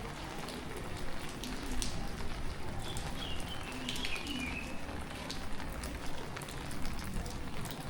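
Tropical rain falling steadily, with many single drops pattering on nearby surfaces. A bird chirps briefly with a few high notes in the middle.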